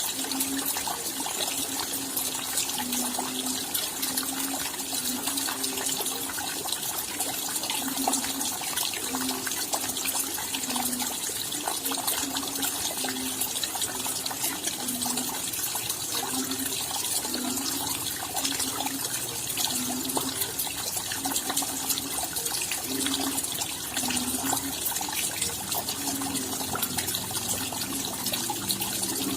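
Steady rainfall with dense patter of individual drops. Underneath, a low short note recurs irregularly, about once or twice a second.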